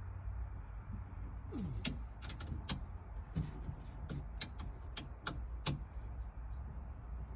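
Hand tools clicking and tapping on metal in an irregular series of sharp clicks as the bolts of a harness bar are tightened, with a brief creak falling in pitch about a second and a half in.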